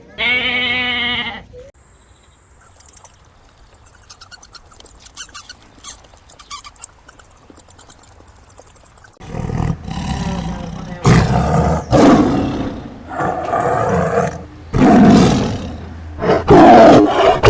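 A short bleat, then faint high chirping, then about five loud roars from a large animal, each lasting a second or two.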